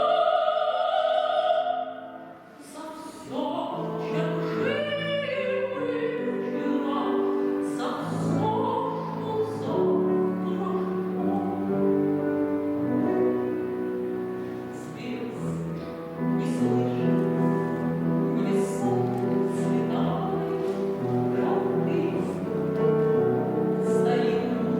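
Grand piano playing an instrumental passage of chords and melody as the accompaniment to a song, after a woman's voice finishes a held sung note about a second and a half in.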